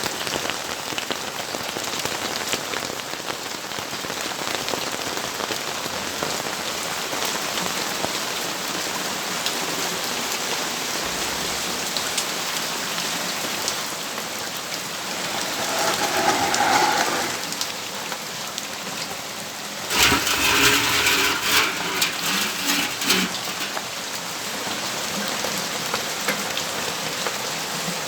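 Steady rain falling, its drops ticking on nearby surfaces. Two louder sounds rise above it: a brief swell a little past the middle, then a sharper, uneven clattering burst a few seconds later that lasts about three seconds.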